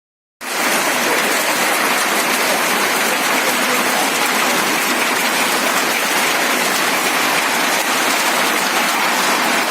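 A hailstorm: hail and rain pelting down in a dense, steady hiss that starts abruptly just under half a second in.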